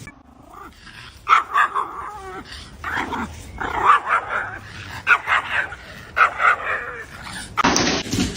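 A dog vocalizing in a series of short pitched calls that bend up and down, about six over several seconds. A short burst of noise comes near the end.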